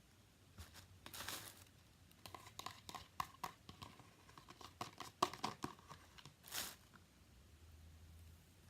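Hands working a wet yogurt-and-egg conditioner through hair: faint scattered crackles and squishes, with a brief rustle about a second in and another near the end.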